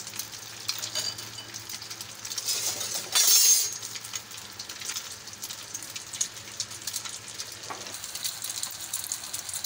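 Egg-coated kabab patty shallow-frying in hot oil, sizzling steadily with many small crackles and pops. About three seconds in there is a louder hiss lasting about half a second.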